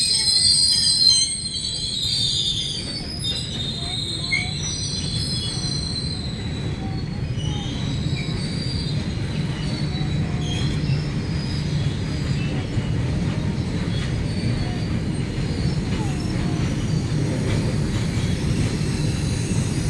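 Loaded freight wagons rolling past with a steady low rumble of steel wheels on rail. A high-pitched wheel squeal in the first second or so fades out, leaving faint scattered squeaks over the rumble.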